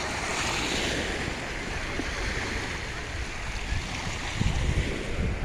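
Sea waves washing onto the shore: a steady rush of surf that swells with a deeper rumble about four seconds in.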